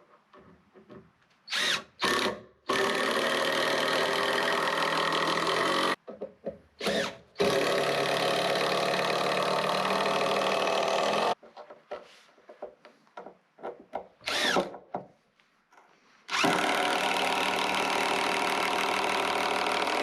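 Power drill running at a steady speed in three long runs of three to four seconds each, with short trigger blips before each run.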